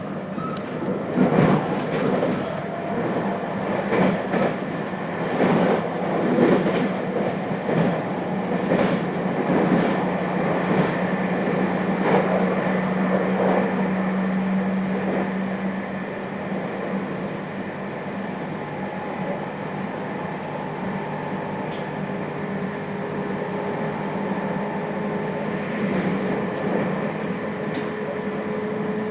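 Running sound inside a JR Hokkaido 721 series electric multiple unit's motor car: wheels clicking over rail joints about once a second, the clicks thinning out about halfway through, over a steady hum and the rumble of the train at speed.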